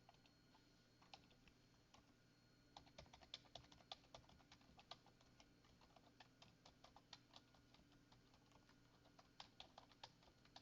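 Faint computer keyboard typing: a few scattered key presses, then quick runs of keystrokes from about three seconds in, with a short lull before another burst near the end.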